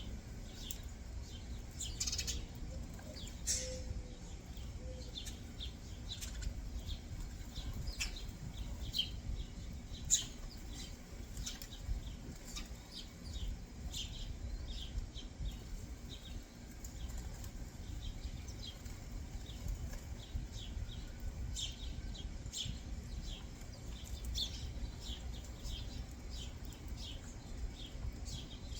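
Small backyard birds chirping: many short, high chirps come in quick clusters and scattered singles, over a steady low rumble.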